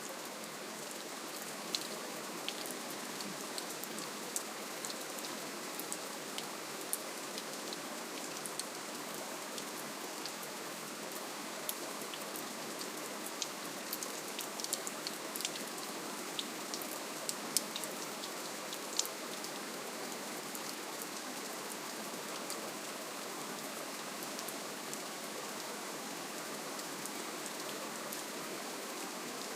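Steady rain falling on surfaces, an even hiss with many scattered drop ticks, which come more often in the first two-thirds.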